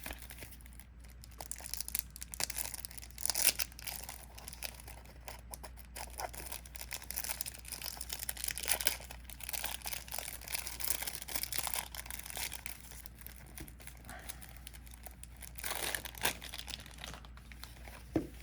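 A trading-card starter deck's wrapper being torn open and crinkled by hand, as irregular rustling with sharper tearing crackles.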